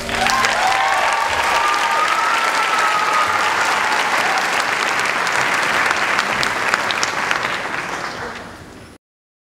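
Audience clapping and cheering, with a few high rising cheers in the first few seconds; the applause fades and cuts off suddenly near the end.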